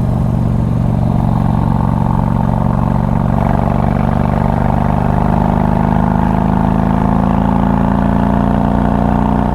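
Harley-Davidson Street Glide's 88 cubic inch fuel-injected V-twin running steadily while under way, through a loud aftermarket exhaust.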